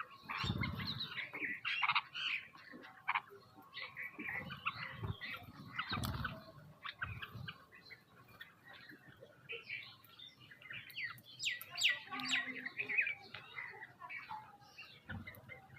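Many small birds chirping and calling over one another in a dense, continuous chatter, with a few low thumps about half a second in, around six seconds in and near the end.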